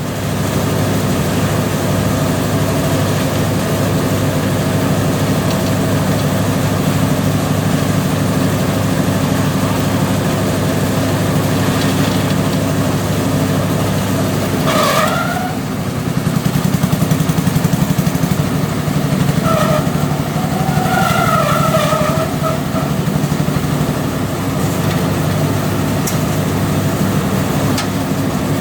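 Engine of site machinery running steadily, with a low, even hum throughout. Brief wavering higher-pitched tones are heard about halfway through and again a few seconds later.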